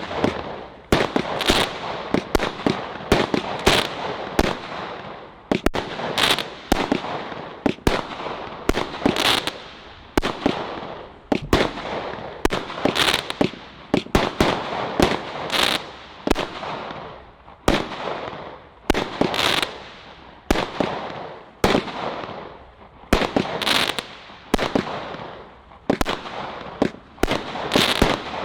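Celtic Fireworks 'Sling Shot' firework firing a long, continuous series of sharp bangs, about one to two a second. Each bang trails off in a fading hiss.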